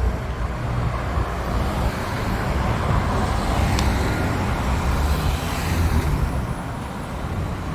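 Road traffic: motor vehicles passing on the street, a steady engine rumble and tyre hiss that swells to its loudest around the middle and eases off near the end.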